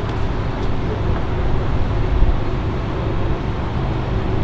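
Steady low background rumble of outdoor ambience, with no distinct event standing out.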